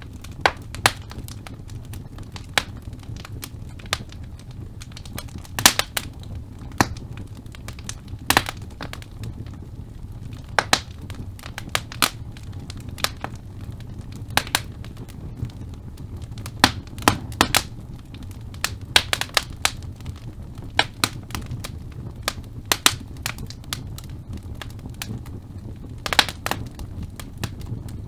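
Wood fire burning in a fireplace: a steady low rumble of flame with irregular sharp crackles and pops from the burning logs, sometimes in quick clusters, loudest about a quarter of the way in and near the end.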